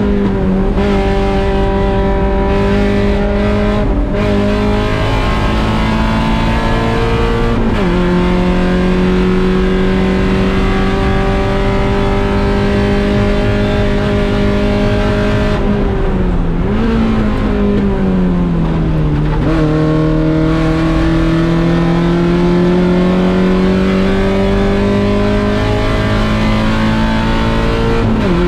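Mazda Miata 1.6-litre four-cylinder race engine pulling under full throttle, its pitch climbing steadily and dropping sharply at an upshift about eight seconds in and again at the end. Around the middle the pitch falls in steps as it downshifts, then climbs again as it accelerates out.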